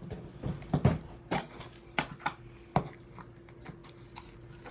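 Hands handling a plastic slime container: a handful of sharp clicks and taps over the first three seconds, under a faint steady hum.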